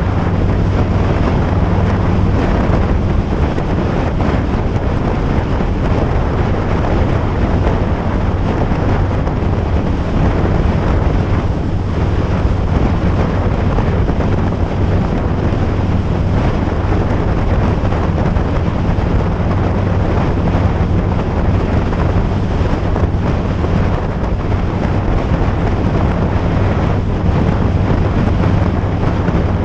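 Wind rushing over the microphone during a ride, over a steady low hum that holds an even pitch throughout.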